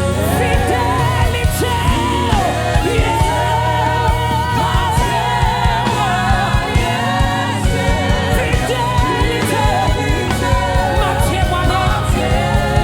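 Live gospel worship music: a lead singer's wavering melody over a full band, with a steady drum beat.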